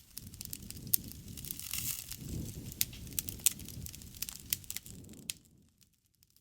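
Bonfire crackling: sharp pops and snaps over a low rustle of burning, dropping away to near silence about five seconds in.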